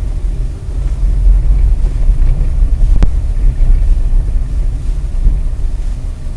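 Dash-cam microphone picking up the steady low rumble of a moving car and wind buffeting, with a single sharp click about three seconds in.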